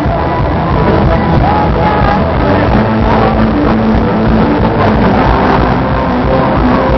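Live band playing loud rock-style worship music, dense and continuous.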